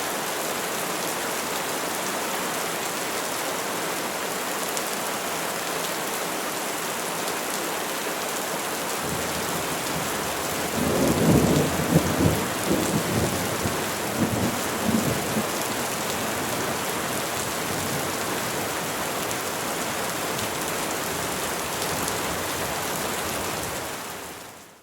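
Steady rain falling on trees, with a low rumble of thunder rolling through about halfway in. The rain fades out at the very end.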